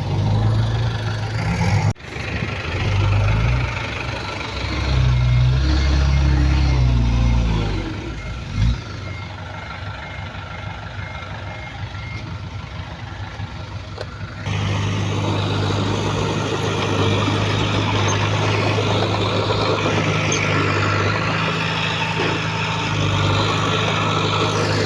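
Heavy diesel engines of a dump truck and bulldozer working, the engine note rising and falling, with a reversing alarm beeping steadily for several seconds in the middle. A bit past halfway the sound changes abruptly to a steadier engine hum.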